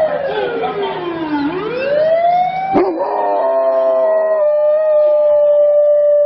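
A dog howling with a siren wailing at the start: the howl sweeps down in pitch and back up, then holds one long steady note from about halfway in.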